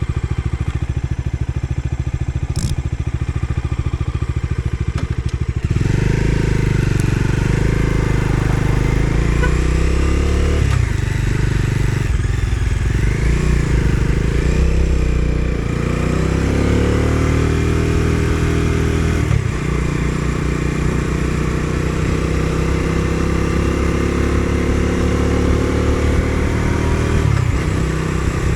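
Bajaj Dominar 250's single-cylinder engine idling. About six seconds in it pulls away and accelerates through several gear changes, the pitch climbing in each gear and dropping at each shift.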